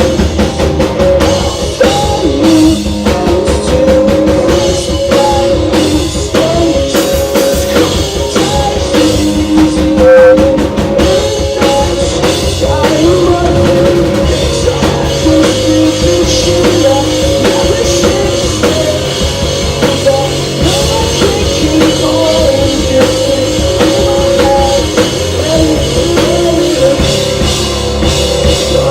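Live rock band playing loudly, a drum kit driving the beat under guitars, with some singing.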